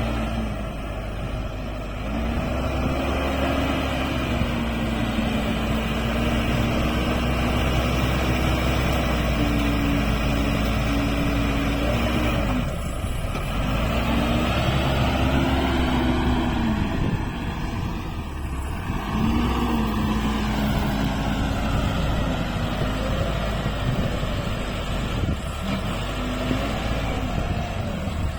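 Backhoe loader's diesel engine running under load, its pitch rising and falling over and over as the engine revs with each hydraulic digging movement.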